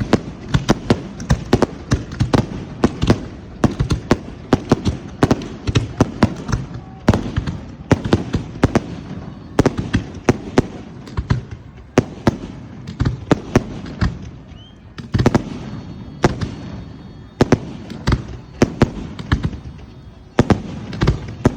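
Fireworks going off in a rapid, irregular barrage of sharp bangs, several a second.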